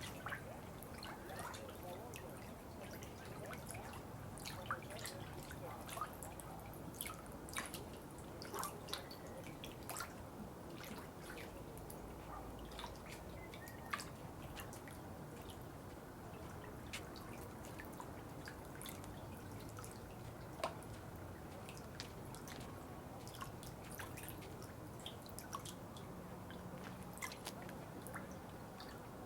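Water dripping: irregular sharp drops falling every fraction of a second to a second over a steady soft water sound.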